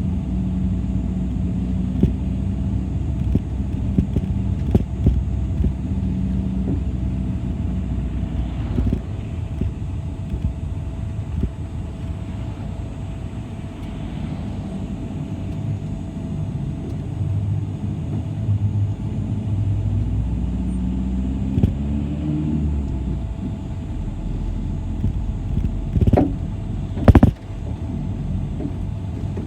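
City bus in motion, heard from inside: a steady engine and road rumble whose engine note shifts down and then climbs again, with scattered rattles. Two loud knocks come near the end.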